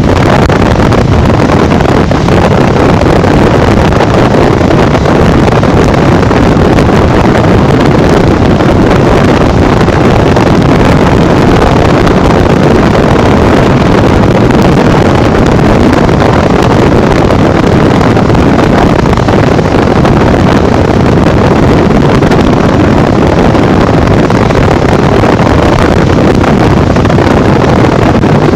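Heavy, steady wind noise buffeting the microphone while riding a Honda Bros 150 motorcycle at speed.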